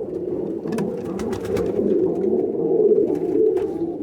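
A loft full of domestic pigeons cooing together in a continuous, overlapping chorus that swells about three seconds in, with scattered sharp clicks and taps among them.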